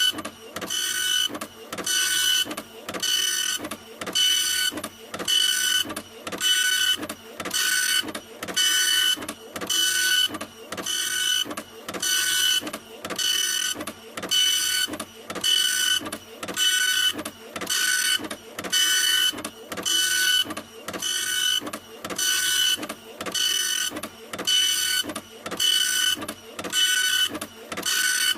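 Printer running continuously, a whirring pass with a steady whine repeating about once a second with a short pause between passes.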